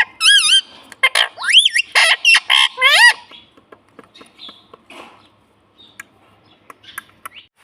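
Ringneck parrot calling: a quick run of loud squawks and wavering whistles for about three seconds, then only soft chirps and small clicks.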